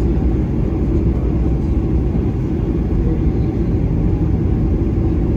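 Steady low rumble of jet engine and airflow noise inside the cabin of a Boeing 737-800 airliner, with its CFM56 turbofan engines running.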